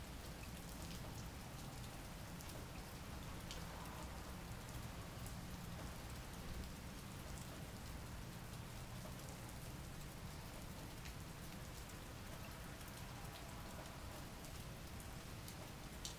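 Steady, fairly faint rain falling, with scattered single drops ticking.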